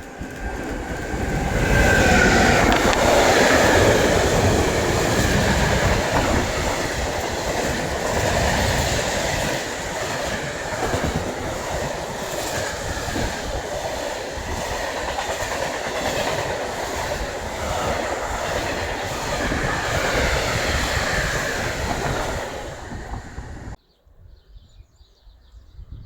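A train passing close by, its wheels clattering rhythmically over the rail joints, loud for about twenty seconds. The sound cuts off suddenly near the end, leaving a faint, quiet outdoor background.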